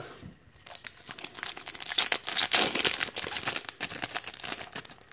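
Foil wrapper of a Pokémon trading card booster pack crinkling and tearing as it is opened by hand, a dense irregular crackle.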